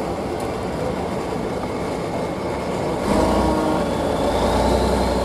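Heavy truck engine running in an off-road trial section. It gets louder and revs up about three seconds in.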